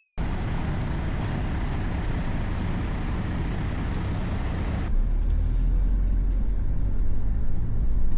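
A car running and moving slowly, with steady engine and road noise. About five seconds in, the sound changes to a heavier, deeper rumble with less hiss.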